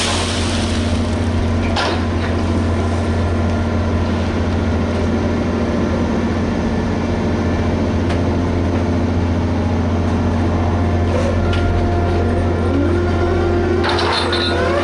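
Liebherr HS8200 dragline's diesel engine running steadily with a deep low hum. A few light clicks, and near the end a cluster of wavering metallic squeals.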